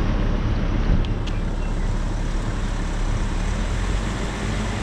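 Wind blowing across the microphone: a steady, deep rush of noise with no clear pitch.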